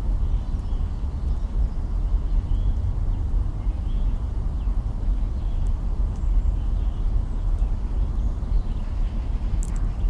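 Campfire burning, with a steady low rumble under it and a few sharp crackles, the clearest near the end. Faint bird chirps come and go in the background.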